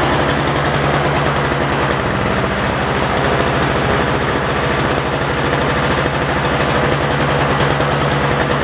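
Toro CCR snowblower's two-stroke engine running steadily off choke, with an even, rapid firing beat. It is running smoothly and no longer stalls: the sign of a cleaned carburetor fed fresh fuel mixture.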